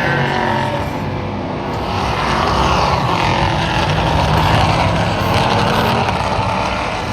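Trans-Am race cars' V8 engines running at speed on the circuit, the engine note rising and falling several times as cars accelerate and pass.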